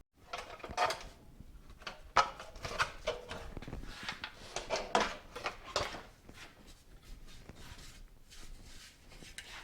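Irregular knocks and light metallic clatter of tools and parts being handled, about a dozen sharp strikes spread unevenly.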